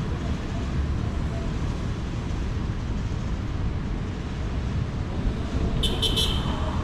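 Steady low rumble of city traffic. A brief high clinking sound comes about six seconds in.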